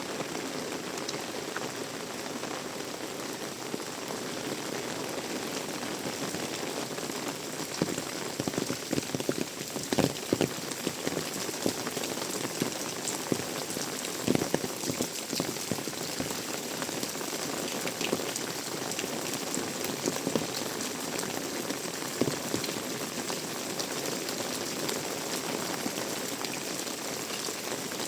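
Heavy rain falling steadily, a dense even hiss of drops. Between about 8 and 22 seconds in, scattered sharper, louder drop hits stand out from the downpour.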